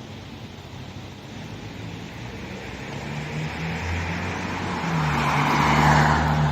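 UH-60 Black Hawk helicopter approaching overhead, its rotor and turbine noise growing steadily louder, with a low hum beneath a broad rushing sound that peaks near the end.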